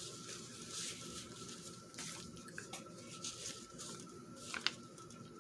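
Soft rustling and scattered light taps of paper being handled and laid out, with a sharper tap about four and a half seconds in, over a faint steady hum.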